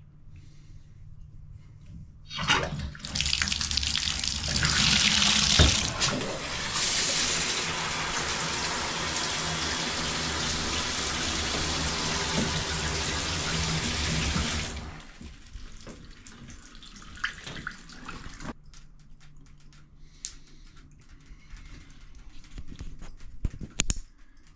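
Water running hard from a tap, turned on a couple of seconds in and shut off about twelve seconds later, with a few small clicks afterwards: a test run of a freshly repaired valve to check for leaks.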